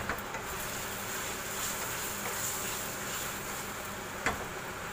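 Chicken pieces and sliced onion sizzling steadily as they fry in a non-stick wok, stirred with a wooden spatula that knocks against the pan twice.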